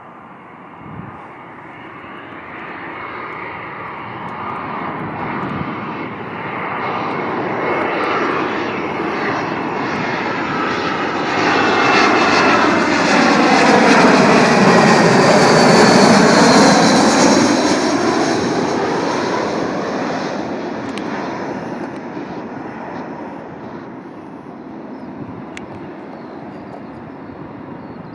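Jet airliner passing close by: engine noise builds for about fourteen seconds, peaks, then fades away, with a sweeping, phasing whoosh as it goes past.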